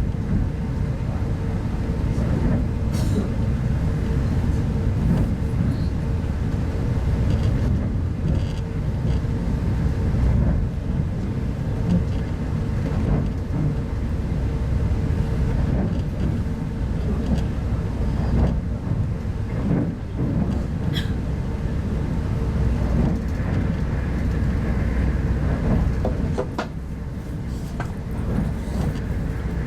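Steady low rumble of a 25T-series passenger coach running along the track, heard inside the carriage, with a faint steady hum and a few scattered sharp clicks.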